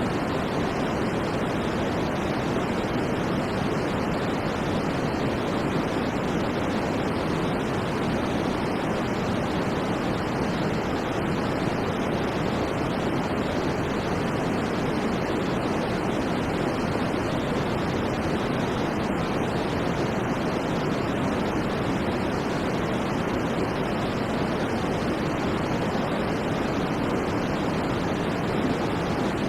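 Continuous white noise for sleep: a steady, even rush with no changes or events, weighted low and deep with little high treble.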